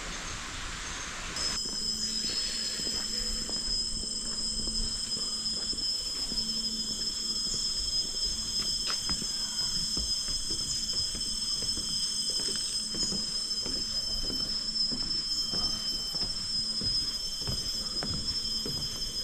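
A chorus of jungle insects holding several steady high-pitched tones. A soft rushing hiss gives way to the insect chorus about a second and a half in.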